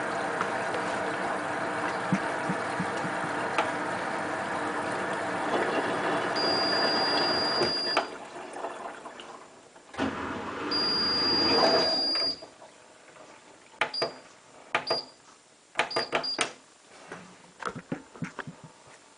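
Hotpoint WT960 washing machine running with a steady rushing noise that stops about eight seconds in. Two long high beeps follow, then several short beeps and clicks.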